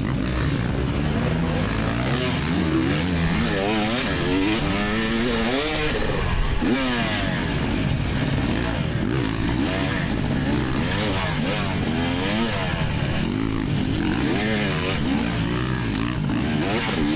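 2024 GasGas EX300 300cc two-stroke dirt bike engine being ridden hard, its pitch constantly rising and falling as the throttle is worked on and off, with wind rush over it.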